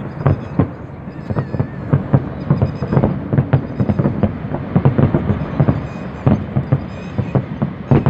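Fireworks display: a dense, continuous run of bangs from shells bursting overhead, several a second, over a steady low rumble.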